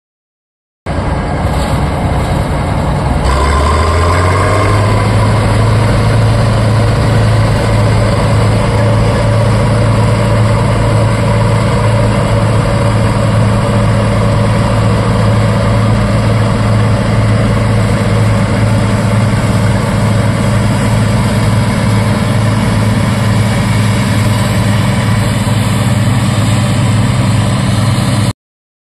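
Bizon Z056 combine's SW400 diesel engine running loudly. It picks up speed about three seconds in, rising in pitch, then holds a steady speed.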